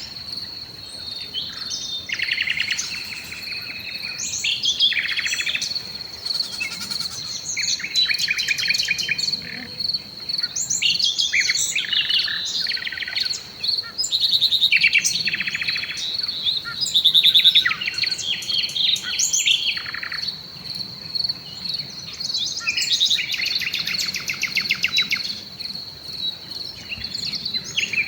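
Several songbirds singing at once in a woodland evening chorus, phrase after phrase of chirps and rapid trills overlapping. Underneath, a steady high-pitched pulsing trill runs without a break.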